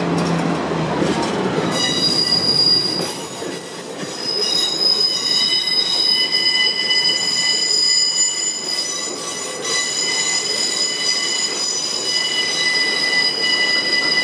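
Freight train of PCA bulk-powder tank wagons rolling past at close range, wheels rumbling steadily on the rails. About two seconds in, the wheels start squealing in several high, steady tones that carry on as the wagons pass.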